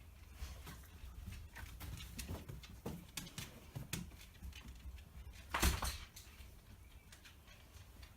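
House finches stirring in their nest in a door wreath: irregular small scratches and rustles, with one louder rush of noise, like a brief flutter, about five and a half seconds in.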